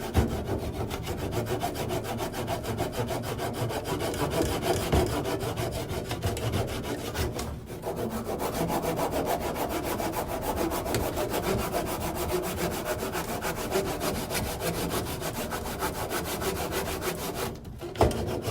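A hand tool scraping steadily through wood, with a short break about halfway. It stops shortly before the end, followed by a single knock.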